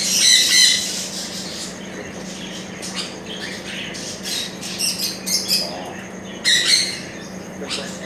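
Caged birds squawking and chirping, loudest at the start and again about six and a half seconds in, over a steady low hum.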